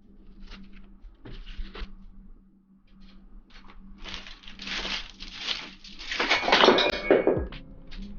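Close-miked ASMR rustling: a few short scratchy rustles, then a longer, louder stretch of rustling from about four seconds in that stops near the end.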